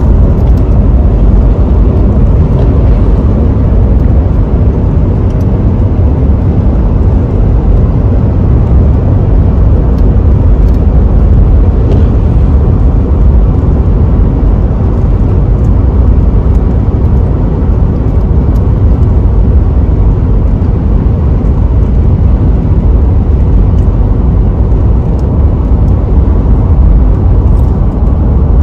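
Car driving along a road: steady low rumble of road and engine noise.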